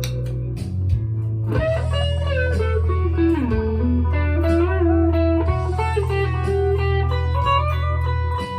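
PRS SE McCarty 594 single-cut electric guitar played through an amp: sustained single notes over a steady low note, with a lead line that slides down in pitch and back up around the middle.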